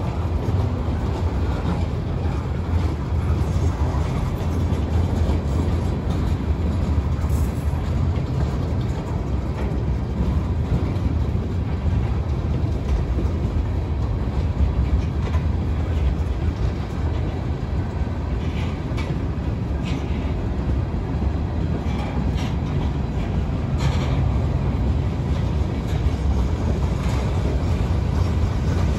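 Freight cars of a long mixed freight, mostly covered hoppers, rolling steadily past a grade crossing: a constant low rumble of steel wheels on rail, with a few scattered clacks at the rail joints.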